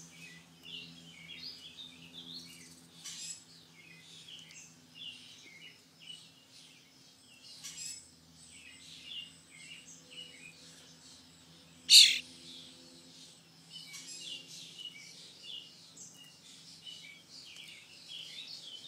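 A baby bird chirping over and over in short high peeps, with one much louder call about twelve seconds in. A faint steady low hum runs underneath.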